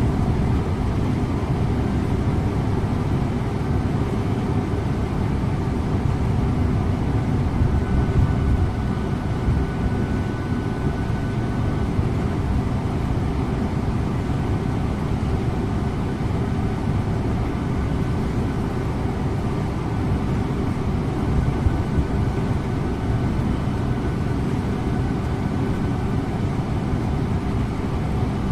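Scania InterLink bus on the move: steady engine and road rumble heard from the driver's seat. A faint thin whine comes and goes around the middle.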